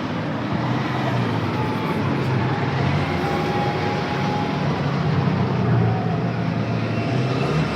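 A car engine running with a low, steady rumble that swells slightly about five to six seconds in.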